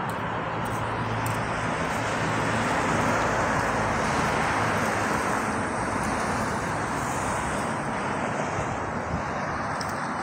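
Road traffic: a vehicle passing, swelling to its loudest a few seconds in and slowly fading, over a steady low engine hum.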